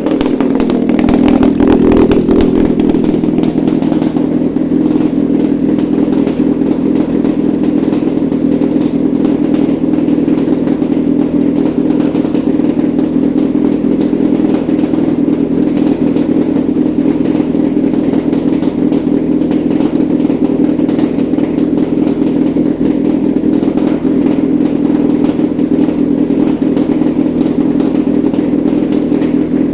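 Mitsubishi 4B12 2.4-litre four-cylinder petrol engine running steadily on a test stand, briefly louder about two seconds in, then holding an even speed.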